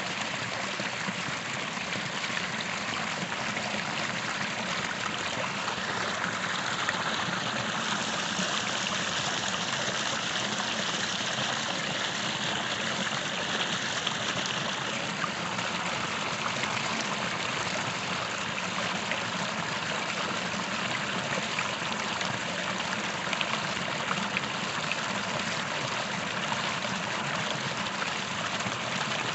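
Small creek's water running and trickling steadily, a little fuller for several seconds in the middle.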